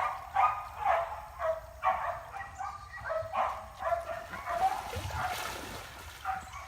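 Repeated short animal calls, about two a second, keeping up a steady string.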